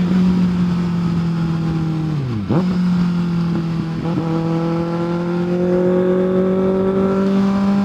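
Kawasaki ZX-6R 636 inline-four sport-bike engine running under way. The revs drop sharply and recover about two and a half seconds in, then climb slowly and steadily.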